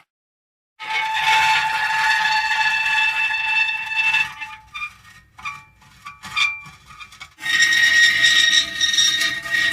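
Metal creaking in long, drawn-out squealing tones. It starts after a brief silence, breaks up into short scattered creaks midway, then settles into a long squeal again.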